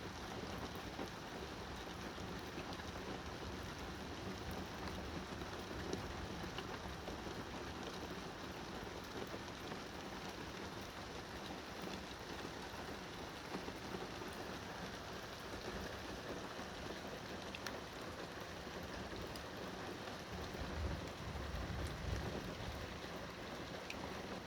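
Steady rain falling during a thunderstorm, an even hiss with scattered drop ticks. A brief low rumble swells near the end.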